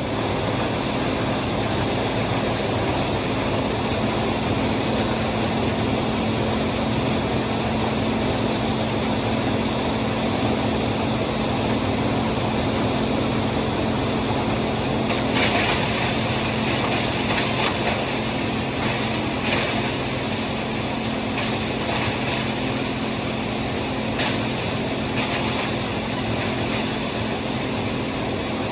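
John Deere 4230's six-cylinder diesel running steadily under load, driving the hammer mill of a New Holland 355 grinder-mixer through the PTO. About halfway through, a harsher rattling hiss joins the steady machine sound.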